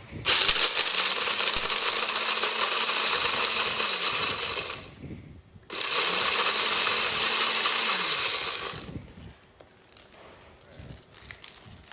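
Countertop blender run twice in short bursts, breaking up whole almonds on their own: about four and a half seconds, a brief stop, then about three seconds more, the motor spinning up quickly and winding down at the end of each run.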